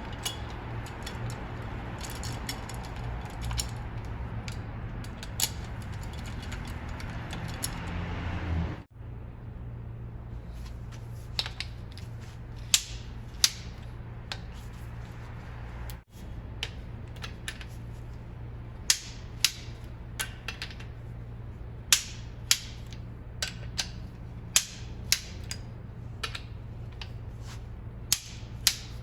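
Irregular sharp metallic clicks of hand tools working on head bolts in an engine's cylinder head, over a steady low hum.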